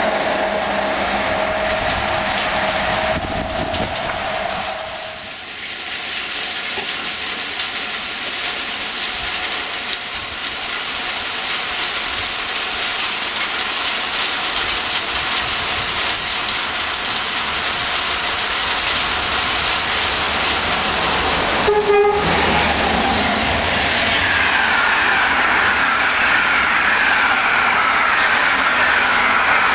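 A train running through a station in the rain, with a steady rush of train noise. A horn sounds in the first few seconds and again briefly about two-thirds of the way through. Near the end there is a falling whine.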